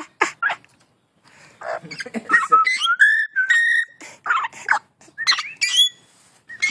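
Pet bird whistling and chattering: a run of short chirps and squawks with gliding pitch, and a longer held whistle about three seconds in.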